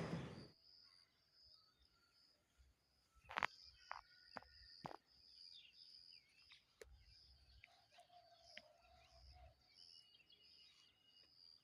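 Faint rural outdoor ambience: a steady high-pitched pulsing trill with a few short bird chirps, most of them about three to five seconds in.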